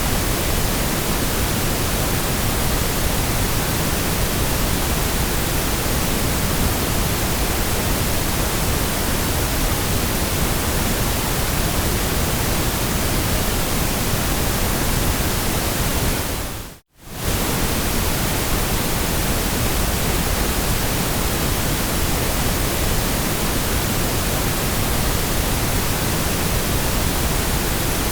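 Steady white-noise hiss, even across low and high pitches. It dips to silence for a fraction of a second about seventeen seconds in and comes straight back, the seam of a looped track.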